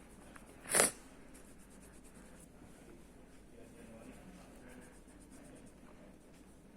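Faint scratching of a pen coloring on paper, with one brief sharp swish about a second in.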